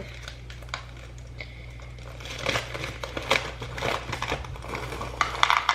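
Crinkling of a snack bag as Goldfish crackers are poured into a small bowl, a run of quick crackles and rattles that thickens about two seconds in, over a low steady hum.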